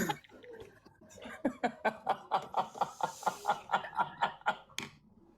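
A person laughing in a string of short, quick chuckles that trail off near the end.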